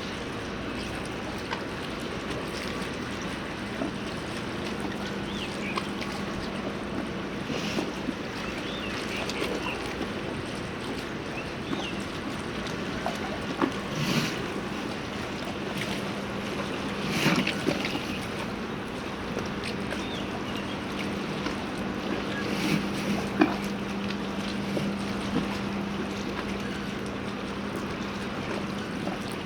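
Harbour ambience: a steady wash of background noise with a low steady hum, stronger in the second half, and scattered knocks and clatters, the loudest about two-thirds of the way through.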